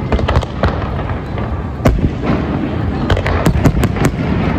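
Fireworks display going off: a continuous rumble of booms with many sharp cracks and crackles, one loud bang about two seconds in and a quick run of cracks a little after three seconds.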